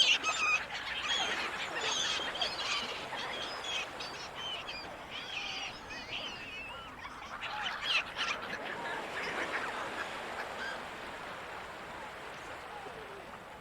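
Gulls calling over steady surf: many overlapping cries, busiest in the first few seconds and again about eight seconds in, thinning out near the end.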